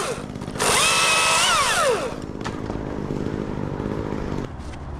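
Chainsaw revving up to full throttle about half a second in, holding for about a second and a half, then dropping back to idle.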